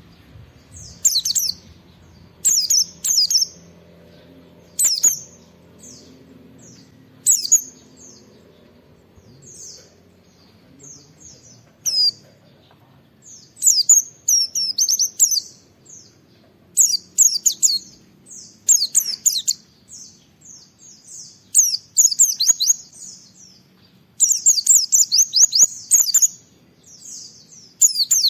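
A white-eye (pleci) singing energetically in high-pitched chirps. Short separate phrases come every second or two at first, then turn into longer runs of rapid twittering, the longest and loudest near the end.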